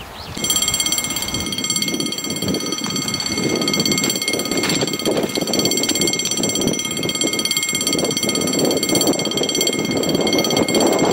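A train approaching out of sight: a steady high-pitched whine over a rumble that grows a little louder near the end.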